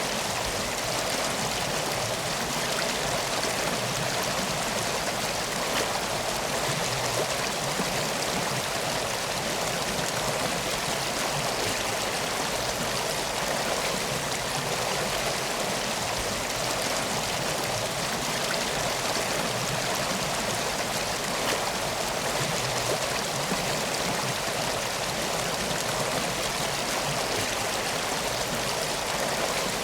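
Steady flowing water of a river, an even unbroken rush.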